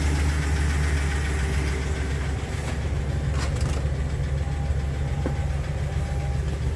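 Ford E-450 box truck's engine idling steadily, a constant low rumble heard from inside the cab, with a couple of faint clicks.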